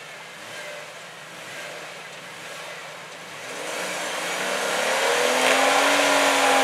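Off-road Jeep engine revving up hard about three seconds in and held at high revs under load as it powers up a steep, muddy climb.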